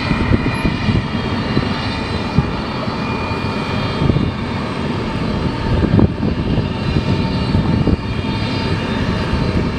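Jet aircraft engines running at an airport: a steady whine of several high tones over an unsteady low rumble.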